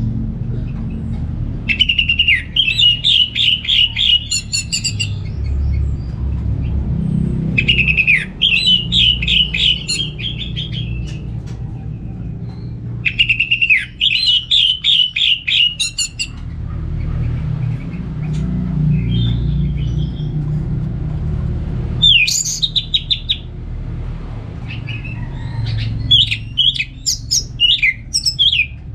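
Orange-headed thrush singing: five separate phrases of rapid warbled notes, each lasting one to three seconds with pauses between, over a steady low rumble.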